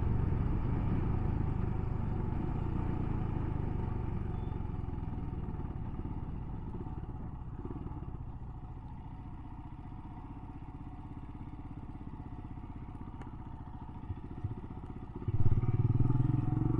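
Royal Enfield Himalayan's single-cylinder engine running, its sound dying down over the first half as the bike slows and then staying low and steady. About three-quarters of the way through, the engine picks up again sharply and much louder.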